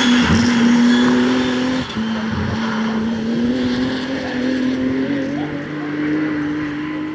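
BMW 3 Series engine held at high revs under load, with tyre noise. The engine note dips briefly about two seconds in, then creeps slowly up in pitch.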